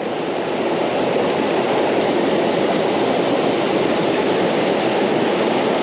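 Creek water rushing over rocks: a steady, fairly loud rush with no change in level.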